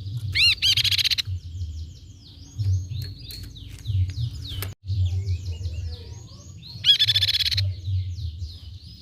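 Crescent-chested babbler (tepus pipi perak) singing: a continuous run of quick, high rising whistled notes and chattering trills. Two louder bursts of stacked rising notes come near the start and about seven seconds in. A low rumble runs underneath.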